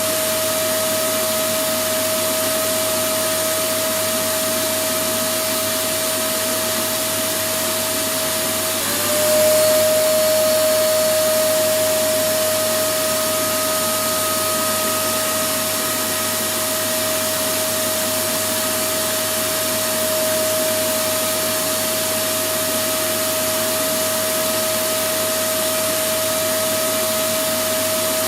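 Electric vacuum cleaner running continuously: a steady rushing noise with a constant high whine. About nine seconds in the whine dips briefly and the sound gets a little louder for a few seconds, then settles back to steady running.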